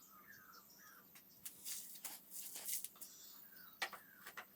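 Faint handling sounds: a few sharp clicks and two brief hissy scrapes near the middle, with small bird chirps in the background.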